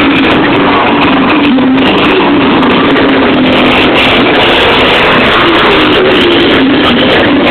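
Motorcycle engines revving and running, loud and continuous, with the pitch wavering up and down.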